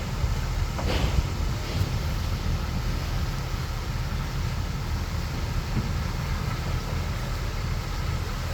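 Bulldozer's diesel engine running with a steady low rumble, with one short falling squeak about a second in.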